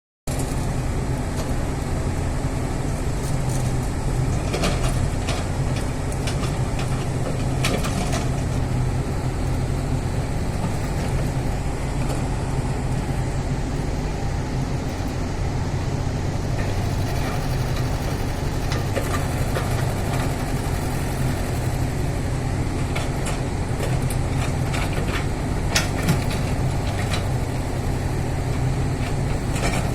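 Excavator's diesel engine running steadily throughout, with a few brief sharp clanks here and there, the loudest near the end.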